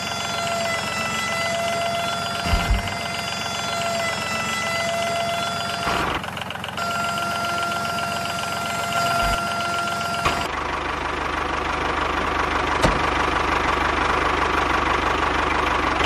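Small electric motor of a handmade toy tractor whining steadily as its trolley tips out a load of toy bricks, with its pitch wavering slightly and a few low thumps. About ten seconds in it changes to a rougher, noisier motor sound.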